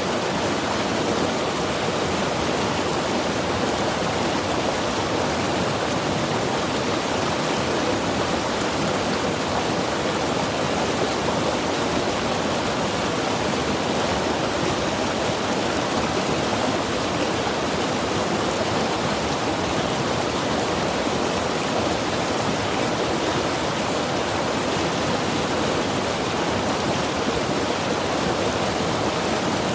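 Mountain river rushing steadily over rocks, an even wash of water noise with no breaks.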